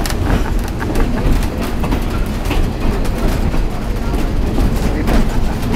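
Railroad passenger car rolling on the rails, heard from aboard an open-sided wooden car: a steady low rumble with frequent clicks and rattles.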